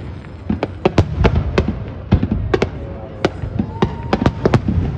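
Fireworks display: aerial shells bursting in a rapid, irregular run of sharp bangs, several a second.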